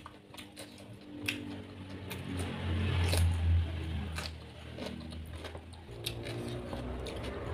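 Close-up mouth sounds of chewing crisp cucumber, with scattered sharp crunchy clicks. Under them is a low rumble that swells loudest about three seconds in and then eases off.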